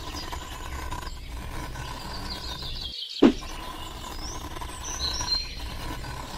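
Steady low background noise with a few short bird chirps in the middle. About three seconds in, the sound drops out briefly and comes back with a short thump.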